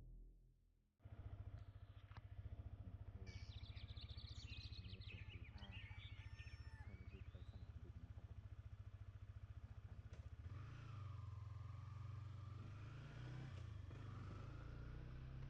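Yamaha MT-15's single-cylinder 155 cc engine running at a steady idle, with an even low firing beat, starting about a second in. Some high chirps come through over it in the middle, and near two-thirds of the way the engine sound grows louder and less even.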